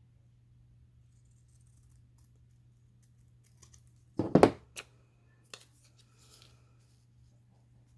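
Craft scissors and paper being handled on a work table: one loud knock about halfway through, then a couple of light clicks and a faint rustle, over a low steady hum.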